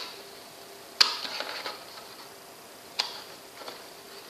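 Plastic clicks and light rattling as the inner protective lens of an auto-darkening welding helmet is slid back into its holder: a sharp click about a second in with a short clatter after it, and a second, smaller click about two seconds later.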